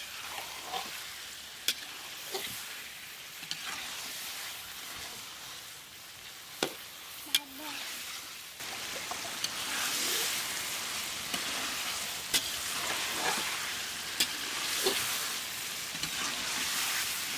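Fish pieces and vegetable slices sizzling as they fry in a metal wok. A steel spatula stirs them, clinking and scraping against the pan now and then. The sizzle grows louder about halfway through.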